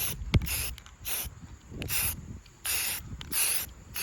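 Aerosol can of pink spray paint sprayed in a string of short hissing bursts, about six or seven, with a sharp click about half a second in.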